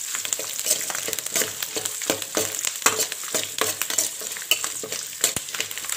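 Sliced garlic, curry leaves and green chillies sizzling in hot oil in a metal kadai while a ladle stirs them, with many quick scrapes and clicks of the ladle against the pan over a steady frying hiss.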